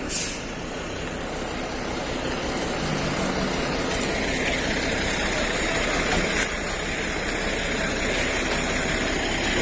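UD Nissan PK260 tractor unit's diesel engine running steadily, slowly getting louder, with a short hiss right at the start.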